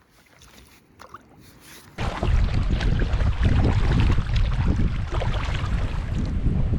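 Faint small clicks, then about two seconds in a sudden switch to loud wind buffeting the microphone on a kayak on the creek, a steady low rumble with water noise.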